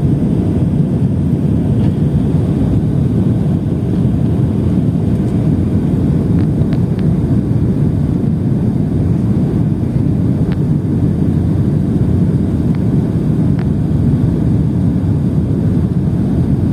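Airplane noise during landing: a loud, steady low rumble, with a few faint clicks in the middle.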